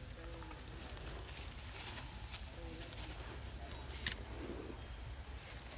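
Forest birds calling: a few sharp, high chirps that rise and fall, the loudest about four seconds in, over short low notes and faint scattered clicks.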